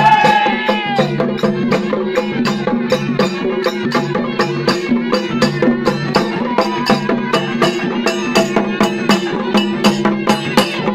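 Traditional folk music: fast, even drumbeats, about five a second, over a steady low drone, with a wavering melodic line in the first second.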